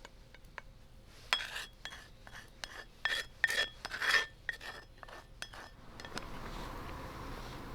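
An eating utensil clinking and scraping against a rice bowl: a run of sharp clinks with a brief ringing tone, thickest about three to four seconds in. They stop about six seconds in, leaving a steady outdoor hum.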